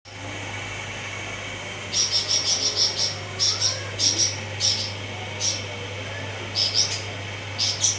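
A cucak cungkok songbird singing in the fast, stuttering 'konslet' style: runs of quick, high, repeated notes in bursts of about half a second, starting about two seconds in. A steady low hum sits underneath.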